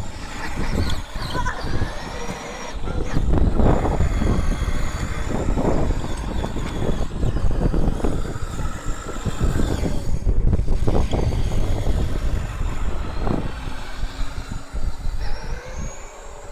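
Electric drive motor of a modified 18-volt ride-on toy quad bike whining as it runs, its pitch rising and falling with speed. A heavy, uneven low rumble sits under it, and a rising whine comes near the end.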